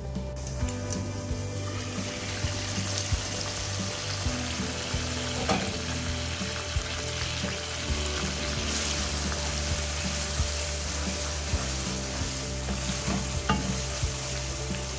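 Chicken karahi frying in the gravy in a karahi pan: a steady sizzle, with a few sharp clicks of a wooden spatula stirring.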